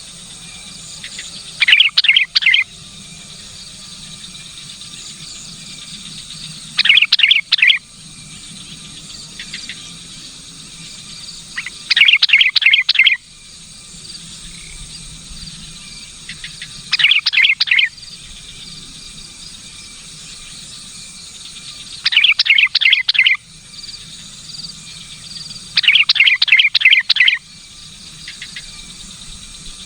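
Sooty-headed bulbul calling in six short bursts of quick, chattering notes, roughly one every five seconds, over steady insect chirring.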